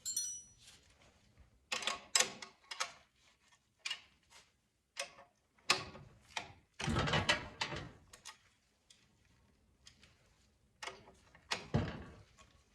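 Tools and metal parts of an oil burner being handled: scattered clicks, knocks and scrapes, with a longer scraping rattle about seven seconds in and another shortly before the end.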